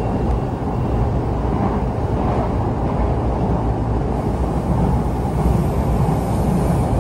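Steady low rumble of a train running along the rails, heard from inside the passenger car.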